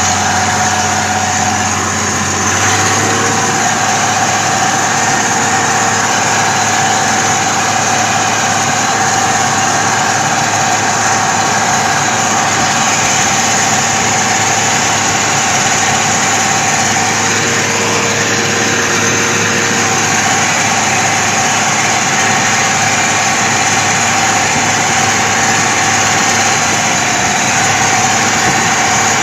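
Truck engine running steadily as the truck is driven, with a constant hum.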